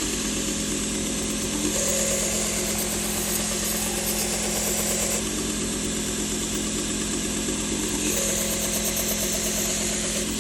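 1x30 belt grinder running steadily with a slack belt. A knife blade is pressed to the belt twice, each pass adding a higher grinding hiss for a few seconds, as a skinning knife's curved edge is sharpened and a burr raised.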